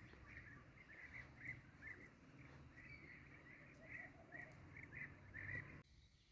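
Faint, rapid, irregular chirping of birds over a low steady hum, cutting off suddenly near the end.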